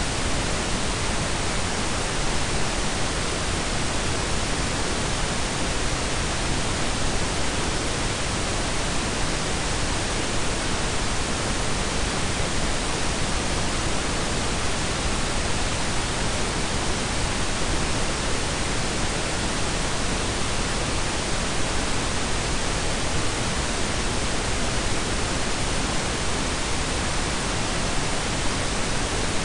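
Steady blend of pink and brown noise: an even, unchanging hiss with a deep rumbling low end.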